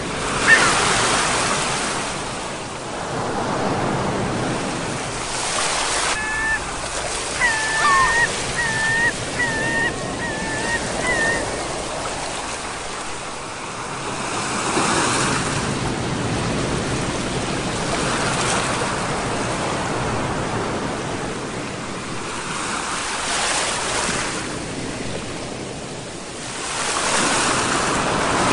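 Sea waves breaking and washing back, the surf swelling and easing every few seconds. A bird calls in a run of short repeated notes from about six to eleven seconds in.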